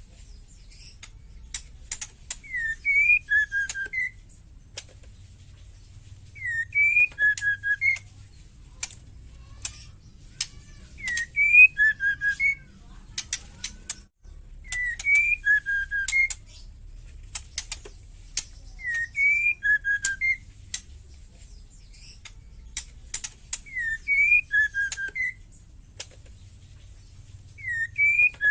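Female white-rumped shama calling: a short phrase of whistled notes, one rising note followed by a few lower, falling ones, mixed with sharp clicking rattles. The phrase repeats about every four seconds, seven times, over a low steady hum.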